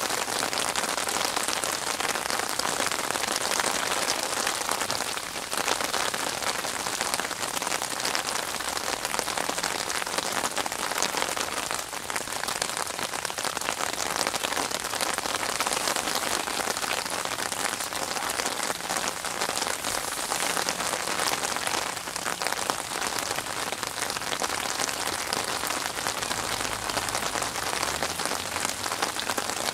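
Steady rain falling on open water: a dense, even hiss made of countless tiny drop impacts on the surface.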